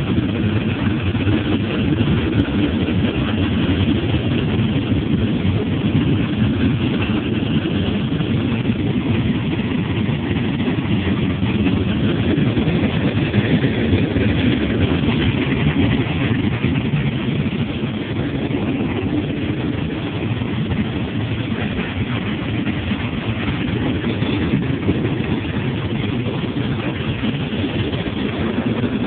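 A freight train's cars rolling past close by: a steady rumble of steel wheels on the rails that runs on without a break.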